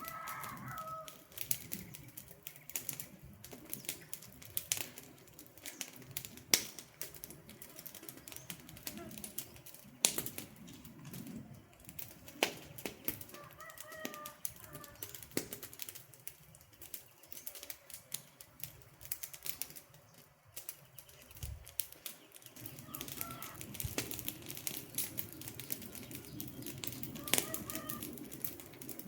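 Wood campfire crackling, with sharp pops scattered irregularly over a low hiss of burning. A few short bird calls come through now and then.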